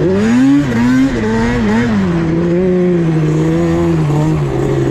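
Yamaha Banshee 350's twin-cylinder two-stroke engine through a 2-into-1 MOTOFAST expansion-chamber exhaust, running under throttle. The pitch climbs quickly in the first half second, rises and dips with the throttle for a second or so, then holds near steady.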